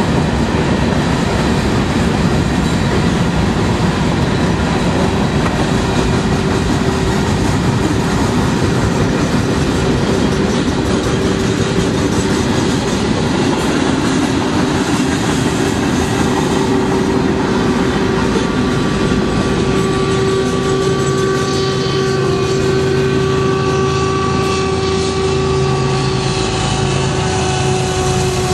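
BNSF mixed freight train's cars rolling past at close range: a loud, steady rumble and clatter of wheels on rail, with a steady hum. About two-thirds of the way through, several more steady tones join in over the rumble.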